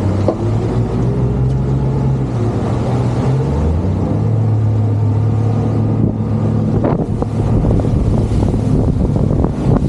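Motorboat engines running hard under throttle, their pitch stepping up twice as the boat speeds up, over a steady rush of wind and water.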